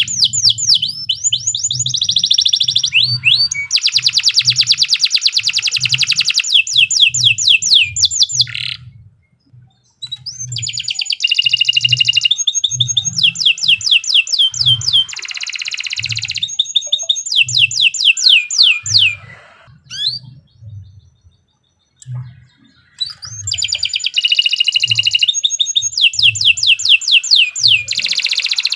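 Domestic canary singing long, rapid trills of quickly repeated sweeping notes, broken by two short pauses. A steady low pulse runs beneath the song about once a second.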